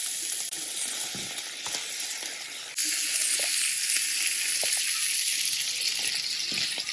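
Sliced plant-based chicken pieces with herbs and soy sauce sizzling steadily in a frying pan. The sizzle grows louder about three seconds in.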